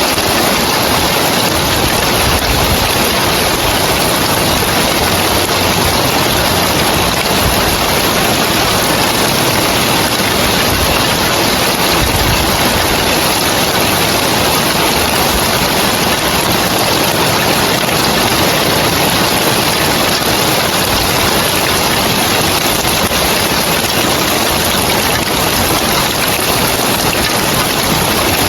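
Steady rain falling on roof tiles: a dense, even hiss that does not let up.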